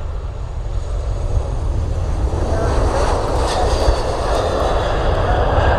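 Boeing 737-700 airliner on approach to land, the noise of its jet engines growing steadily louder as it draws near, with a faint whine over a low rumble. Wind rumbles on the microphone.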